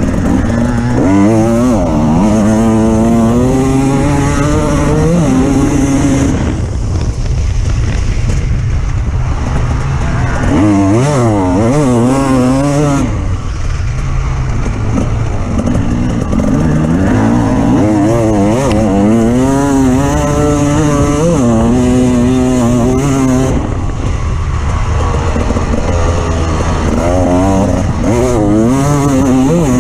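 Off-road vehicle engine running under load over rough ground, revving up and dropping back again and again, its pitch wobbling, over a steady low rumble. There are several long surges, at the start, in the middle and near the end.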